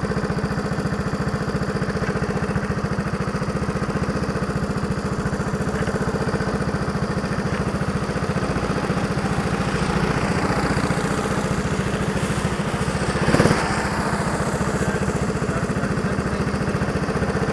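Go-kart engine running steadily with an even, rapid firing pulse, with a short louder burst of noise about thirteen seconds in.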